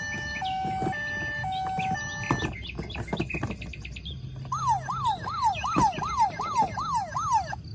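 A toy vehicle's electronic siren. First comes a stepped two-note tone broken by clicks, then a fast rising-and-falling wail that repeats about twice a second.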